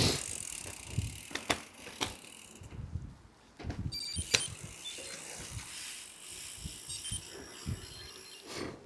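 Bicycle riding along a rough trail: tyre noise with sharp rattles and knocks from the bike over bumps.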